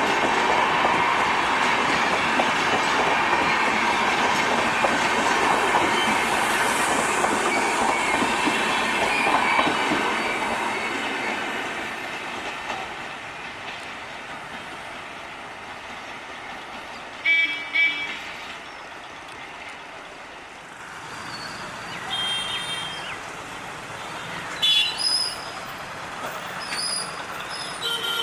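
Coaches of an express train rolling past at speed with a steady clickety-clack of wheels on rail joints. The noise fades away over a few seconds as the last coach goes by. Afterwards several short horn honks sound at the level crossing.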